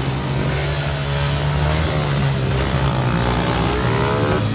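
Motorcycle engines running loudly under a steady low drone, with several revs whose pitch climbs and falls, as riders throttle up for wheelies.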